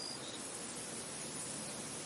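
Steady wind blowing through a field, an even rushing noise, with a brief high chirp right at the start.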